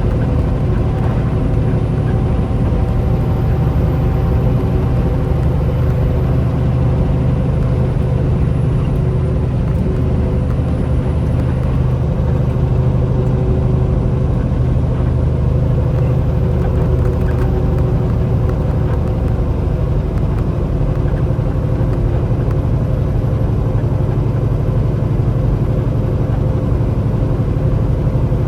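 Semi truck's diesel engine running steadily: a constant low drone with faint steady tones above it.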